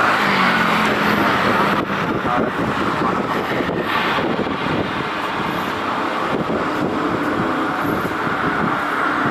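Steady jet roar from the GE90 engines of a Boeing 777-300ER climbing away after take-off.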